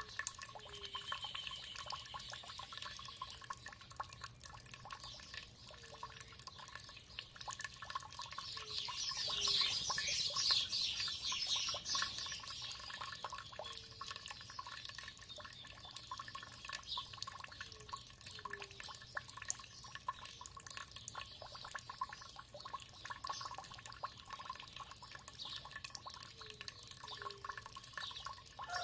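Water trickling and dripping steadily, with birds calling over it; a rapid high trill grows louder about nine to twelve seconds in.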